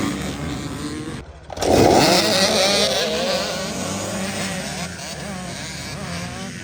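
A pack of off-road dirt bike engines revving hard and accelerating together. About a second and a half in, the sound drops out briefly, and the bikes come back louder with many engine notes rising and falling at once.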